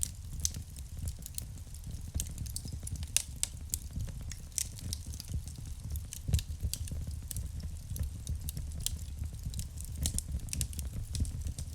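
Wood fire burning in a fireplace: a steady low rumble of the flames with irregular sharp crackles and pops, the loudest pop about six seconds in.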